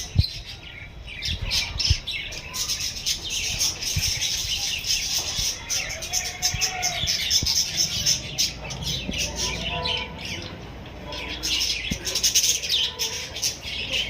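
A flock of budgerigars chattering: dense, rapid chirps and warbles with squawks mixed in, easing briefly about two-thirds of the way through.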